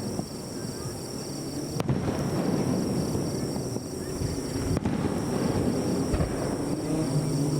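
Aerial fireworks bursting and crackling, with sharp bangs about two seconds and five seconds in.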